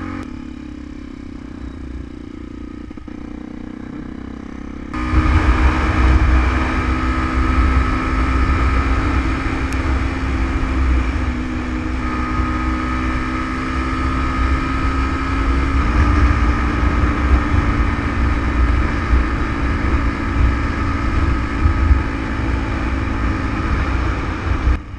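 Yamaha WR125X's single-cylinder 125 cc four-stroke engine running at steady revs while riding, with wind buffeting the microphone. About five seconds in it suddenly gets much louder, with heavy wind rumble, and later the engine note shifts in pitch twice.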